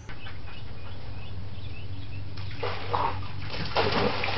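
Water splashing as a German shepherd paws at a swimming pool, getting louder about two and a half seconds in, over a steady outdoor hum with faint bird chirps.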